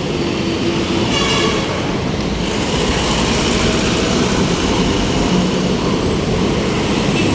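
Road traffic heard from a moving bicycle: a steady rumble of passing vehicles and engines, with a brief high horn-like tone about a second in.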